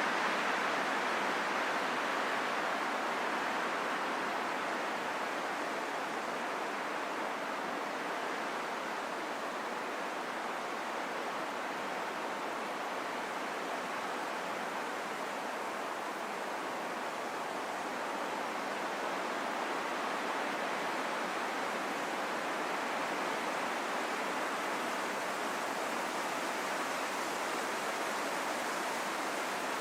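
Wind blowing steadily: a smooth, even rushing noise with no whistling tones, easing slightly in the first few seconds.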